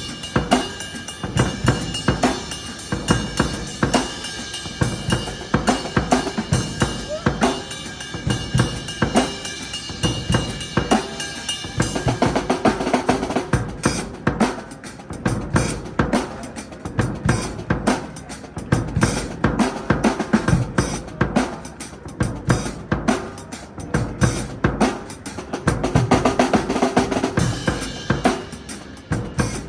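Dixon drum kit played in a half-time shuffle groove, with bass drum, snare and rimshot strokes and fills throughout.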